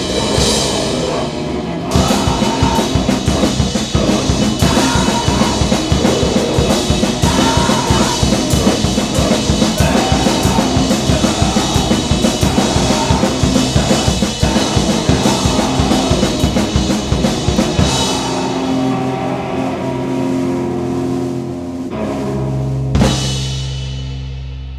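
Noisegrind band playing: very fast, dense blast-beat drumming and cymbals under distorted noise. The drumming stops about three-quarters of the way through, leaving a held feedback drone with one last crash near the end as it fades out.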